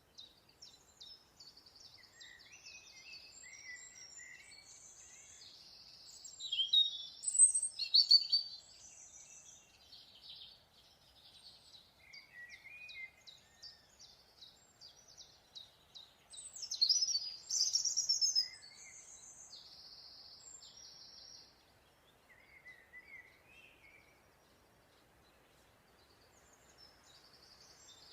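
Several birds singing and calling: quick repeated high chirps and trills, with two louder, busier bursts of song about seven and seventeen seconds in.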